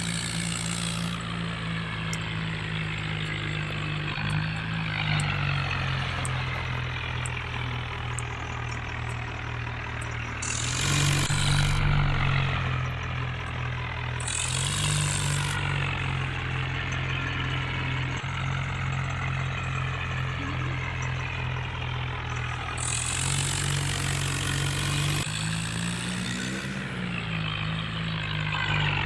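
Tractor engine running at a steady speed, its pitch stepping up and down a few times, with several short bursts of hiss.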